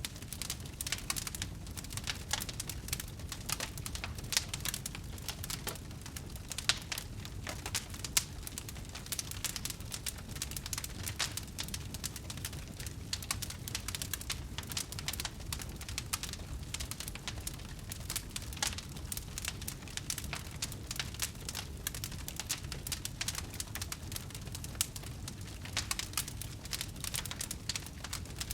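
Wood fire crackling: a dense, continuous run of small pops and snaps over a low steady rumble, with a few louder snaps in the first third.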